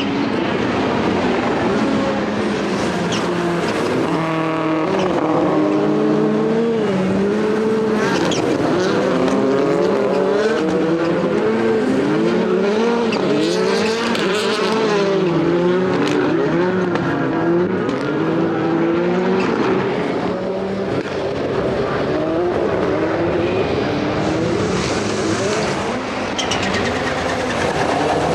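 Several World Rallycross Supercars, turbocharged four-cylinder rallycross cars, racing past at once: their engines rev up and down through gear changes and overlap, with a few sharp pops.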